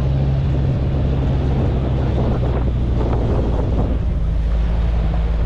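A 4x4 vehicle's engine running steadily under load with rough road rumble, and wind buffeting the microphone. The engine note changes about four seconds in.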